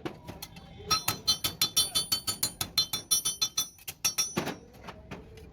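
Fast run of metallic hammer taps, about six or seven a second, each ringing, followed by one louder strike and scrape.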